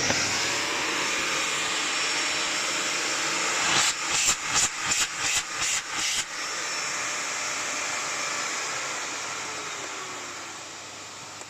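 Miele S5281 2200-watt canister vacuum cleaner running, a steady rush of air through the motor and hose. About four seconds in comes a quick run of about seven knocks over two seconds, each dipping the air noise, then the steady running returns and eases slightly near the end.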